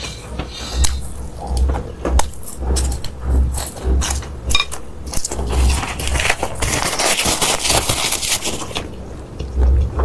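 Close-miked eating sounds: a person chewing and crunching food, with clicks and low thumps throughout and a dense run of crunching about two-thirds of the way through.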